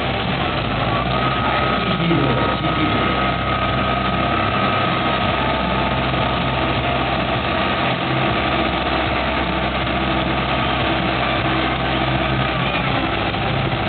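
Crane engine running steadily, with a thin steady whine over it for most of the stretch.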